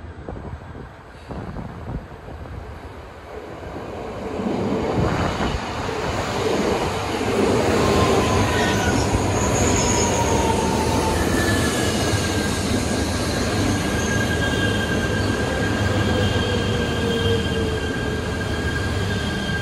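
E3-series Yamagata Shinkansen 'Tsubasa' train running along the line. It grows louder over the first several seconds and then stays loud, with thin wheel squeals that hold or slide slightly down in pitch.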